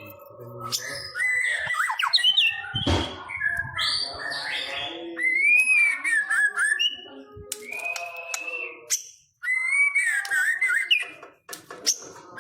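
White-rumped shama (murai batu pastol) singing a varied song of clear whistles, quick rising and falling glides and harsh squawky notes, broken briefly twice near the end. A low bump is heard about three seconds in.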